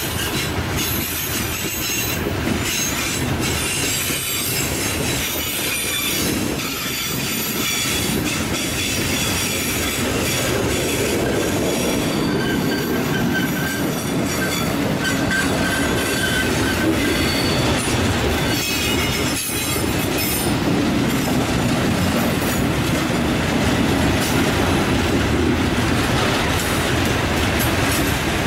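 Long freight train's wagons rolling past on a curve: a steady rumble of wheels on rail with intermittent high-pitched wheel squeal.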